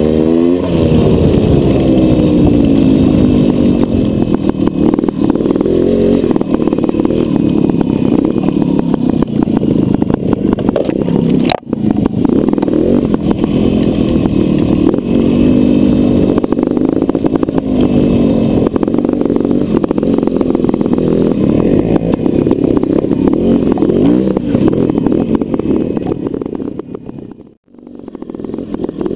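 Trials motorcycle engine running at low to moderate revs while ridden over rough ground, the revs rising and falling with the throttle. The sound drops out briefly about a third of the way in and again near the end.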